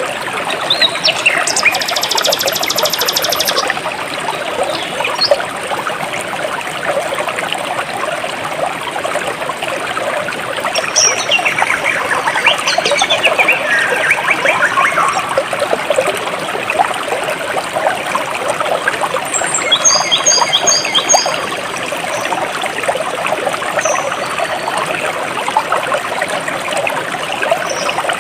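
Jungle stream trickling and babbling steadily, with birds calling over it: a fast high trill a few seconds in, falling whistled calls about midway, and a short run of quick repeated chirps later on.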